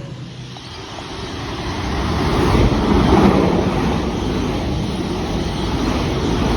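Sydney electric suburban train passing through the station without stopping. Its rumble builds over the first couple of seconds, then holds loud and steady.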